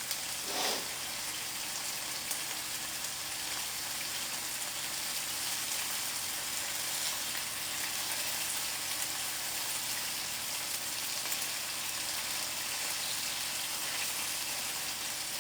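Chicken tenderloins frying in olive oil in an uncovered skillet: a steady sizzle with fine spitting crackle.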